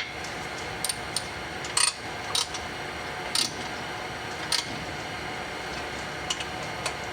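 Hand tools working the header's socket-head cap screws, with a few sharp metallic clicks and clinks at irregular intervals over a steady hiss.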